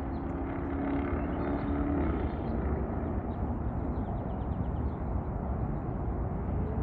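Aircraft engine noise heard from the ground: a steady low rumble, with a faint hum that fades about two seconds in.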